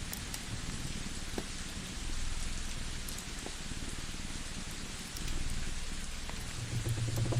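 Layered ambience: a steady hiss of rain with a low cat purr that swells and fades in slow cycles. A few sharp crackles and pops from a wood fire come through, with a cluster near the end.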